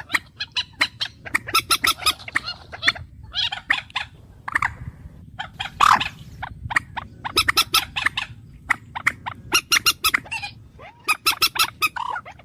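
Bird calls: rapid runs of short sharp notes in bursts with brief pauses between, and a few slurred notes mixed in.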